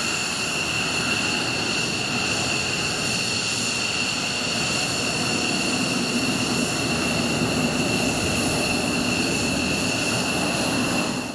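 F-15 fighter jet engines running at taxi power: a steady rush of noise with a high-pitched whine over it.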